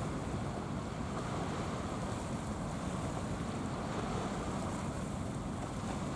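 Steady rush of wind and sea waves, an even noise with no distinct events.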